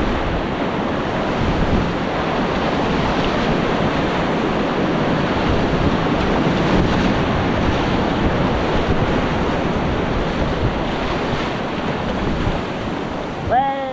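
Whitewater river rapids rushing steadily and loudly, with wind buffeting the action-camera microphone. A short gliding call, like a person's shout, comes near the end.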